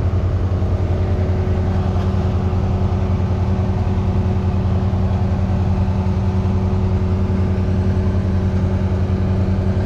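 Motorcycle engine running steadily at low revs with an even, rapid pulsing.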